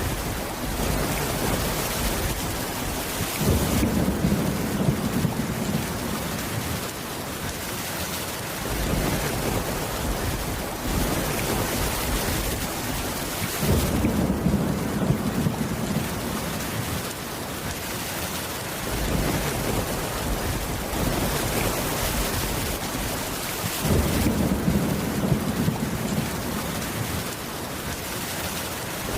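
Steady rain falling. A low rumble of thunder comes in three times, about ten seconds apart, each lasting about five seconds.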